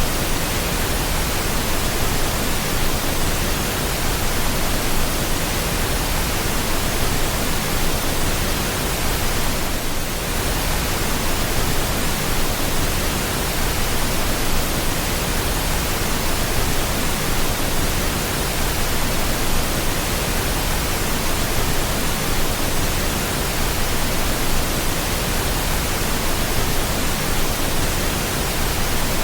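Steady, unbroken pink noise: an even, full-range hiss at a constant level, with no tones or events in it.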